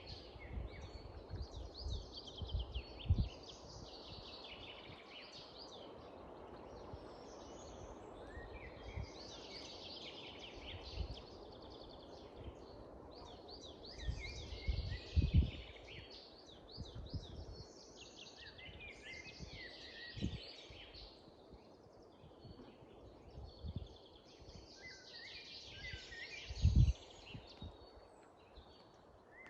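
European goldfinch singing: twittering, warbling phrases of a few seconds each, repeated with short pauses, over a steady low hiss. A few short low thumps stand out, the loudest about three seconds in, about halfway, and near the end.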